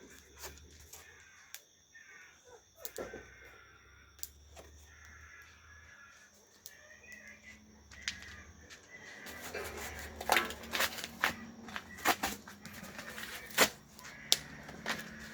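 Sharp cracks and snaps of twigs and wood at a campfire, scattered at first and coming thicker and louder in the second half.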